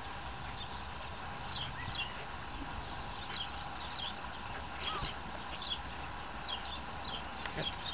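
Small birds chirping, many short high chirps, mostly falling in pitch and scattered irregularly, over a faint steady hum.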